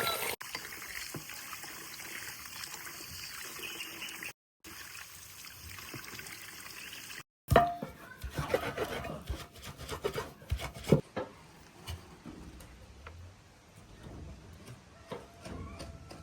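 Water running or trickling steadily, then, after a cut, a string of sharp knocks and clatters as things are handled.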